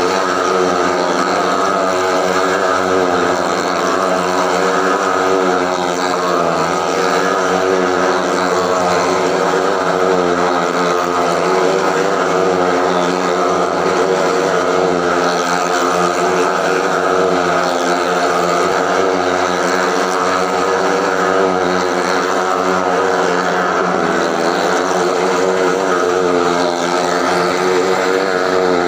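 Motorcycle engine running steadily at high revs as it circles the wooden wall of a well of death, its pitch wavering slightly up and down.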